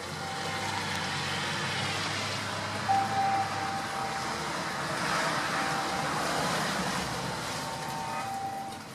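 A road vehicle passing: a broad rushing tyre-and-engine noise that swells towards the middle and fades again.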